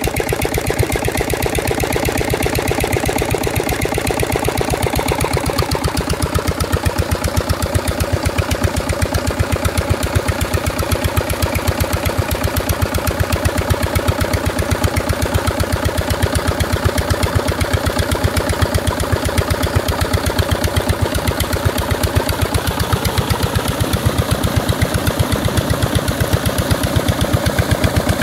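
Diesel engine driving an irrigation water pump, running steadily with an even, regular beat of firing pulses.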